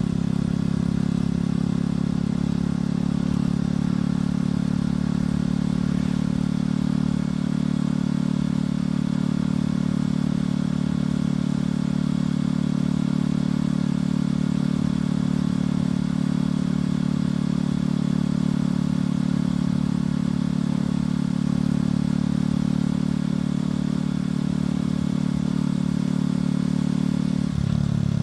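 Motorcycle engine and exhaust running at a steady cruising speed, its pitch holding level, with a brief shift in engine pitch near the end.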